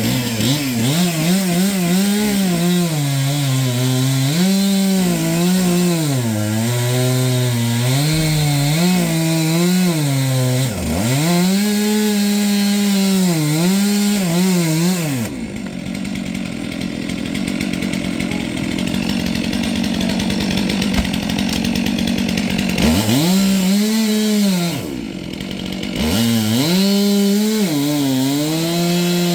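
Two-stroke Stihl chainsaw with a new chain, revving and cutting wood, its engine pitch rising and sagging as the bar bites in and clears the cut. About halfway through, the engine drops to a lower, rougher sound for several seconds, then revs up again, with another brief drop near the end.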